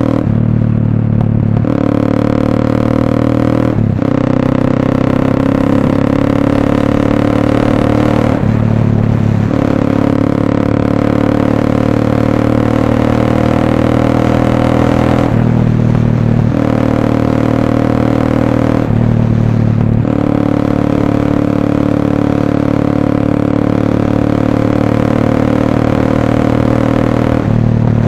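Motorcycle engine of a Motorstar Cafe 400 running through an SC Project slip-on exhaust while riding. The engine note holds steady, then dips and changes pitch about five times, as on shifts or easing off the throttle.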